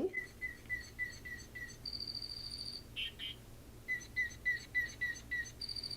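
Recorded lark bunting song played from a toy bird: a run of about six short, evenly spaced whistled notes, then a high buzzy trill and two quick notes, with the whole phrase starting again about four seconds in.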